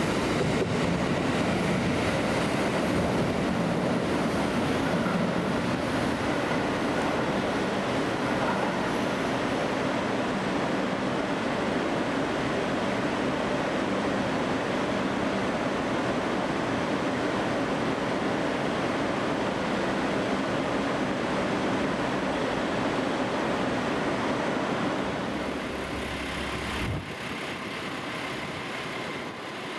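A train running on the rails: a steady rumble that eases off about four seconds before the end.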